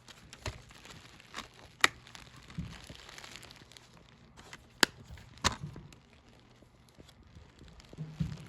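A plastic Blu-ray case and its discs being handled: several sharp plastic clicks and snaps, the loudest about two seconds and five seconds in, with light rustling between.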